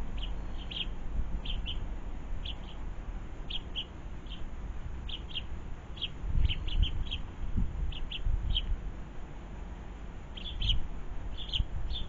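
Small garden birds chirping: short high chirps, often in pairs, repeated at irregular intervals. Underneath is a low rumble that swells about six seconds in and again near the end.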